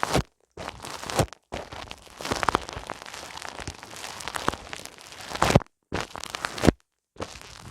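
Fingers rubbing and pressing on a microphone's ears in an ASMR ear massage, giving crackly rustling in bursts with sharp clicks. The sound drops out abruptly to silence a few times.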